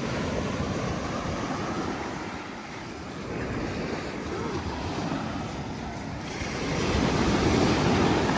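Ocean surf washing on the beach with wind on the microphone, swelling louder near the end.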